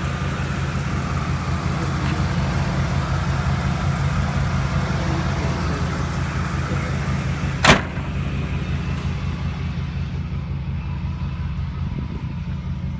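Straight-piped V8 of a 2006 Dodge Ram 1500 idling steadily with an even low pulse, and a single sharp click about eight seconds in.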